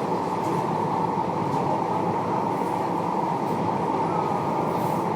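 Interior of a moving tram: steady running noise of the wheels on the rails and the drive, with a constant hum.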